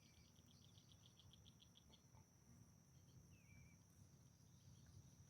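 Near silence with faint insects singing outdoors: a steady high drone, with a fast pulsing trill in the first two seconds and a short chirp about three seconds in.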